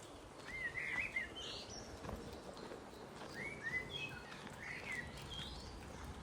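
A songbird singing two quick phrases of warbled, rising and falling whistled notes, the first about half a second in and the second from about three seconds in, over a steady outdoor background hiss.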